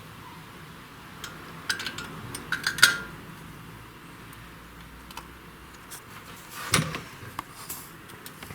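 Metal hand tools clinking and tapping against the steel valve-train parts of a VAZ-2109 cylinder head during valve stem seal work. There is a cluster of light clinks with brief ringing about one to three seconds in, and a single louder knock near the end.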